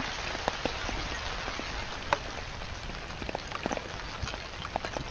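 Steady rain, with many separate drops striking sharply close to the microphone.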